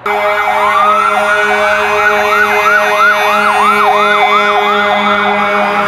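Emergency vehicle siren, starting suddenly with one long rising wail and then switching to a fast yelp of about three sweeps a second, over a steady low tone.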